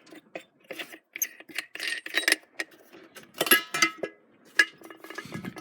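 Irregular metal clinks and knocks from parts being handled at the engine while the carburettor is primed, with one louder, ringing clank about three and a half seconds in.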